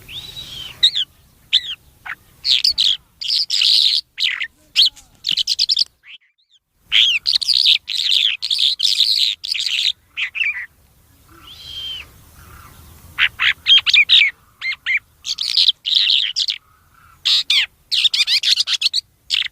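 A bird singing in quick runs of high, rapid chirps and twittering notes, each run lasting a second or three, with brief pauses between phrases.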